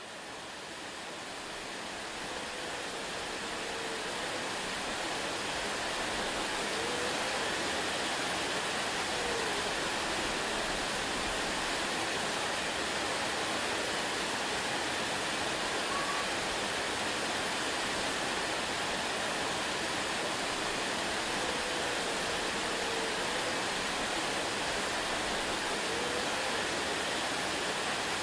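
Waterfall, water rushing in a steady, even roar that fades in over the first several seconds and then holds level. A few faint short rising and falling tones show now and then beneath the rush.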